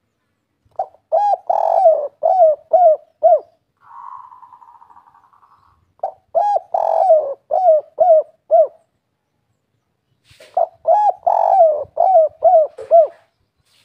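Spotted dove (tekukur) singing its 'kuk 3' song: three phrases of several coos each, a few seconds apart. A fainter buzzing trill sounds between the first two phrases.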